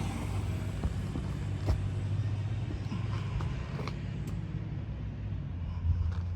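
Two-stroke 250 motocross bike engine idling steadily, with a few light clicks over it.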